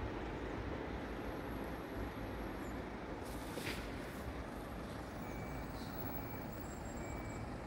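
Steady rumble of a train moving away from the crossing, fading slightly, with a brief hiss about three and a half seconds in.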